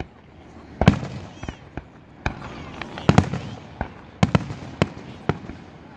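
Aerial fireworks shells bursting overhead: a run of about ten sharp bangs of varying loudness, some in quick pairs, each fading off briefly after it.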